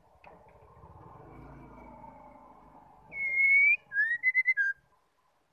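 White-rumped shama (murai batu) singing: one loud, clear whistled note, then a quick stuttering run of about five short whistles that drops to a lower note at the end.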